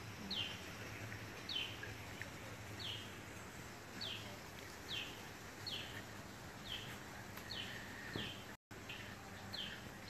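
A bird calling a short, high, falling note over and over, about once a second, against a faint steady hum.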